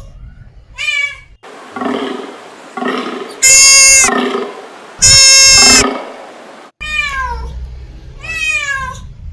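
A cat meowing, its calls rising and falling in pitch, broken by a different passage holding two very loud, long, steady-pitched animal calls from another animal about a third and halfway in; the cat meows again repeatedly near the end.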